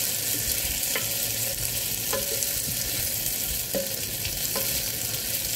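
Tofu cubes sizzling as they fry in a Hanabishi electric multi-cooker's nonstick pot, stirred and turned with a spatula, with a few light knocks of the spatula against the pan.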